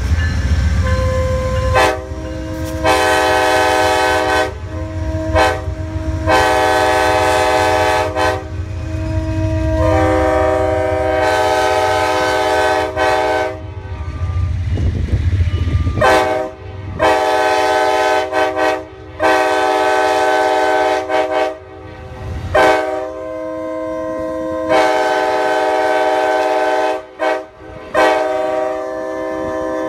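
Multi-chime train horn blown again and again: about ten long blasts of one to four seconds each, with short gaps, the chord changing a little from blast to blast. A low rumble runs under the quieter stretches near the start and about halfway.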